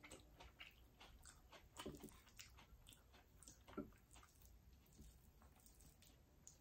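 Faint chewing of a mouthful of food: soft, irregular wet mouth clicks and smacks, with a few louder ones about two and four seconds in.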